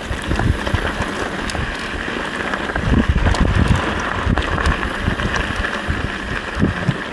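Wind buffeting the camera microphone while riding, a gusty rumble, with a few sharp clicks and knocks scattered through it.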